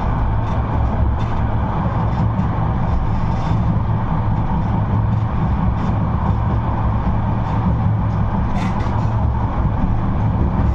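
Type 71-628-02 tram running along the line, heard from on board: a steady low rumble of wheels on rail and running gear, with scattered short clicks and rattles, the sharpest about eight or nine seconds in.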